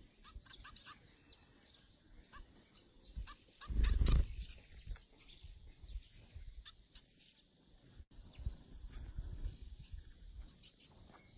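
Small birds chirping sporadically: short, high calls scattered through, with a brief loud low rumble about four seconds in.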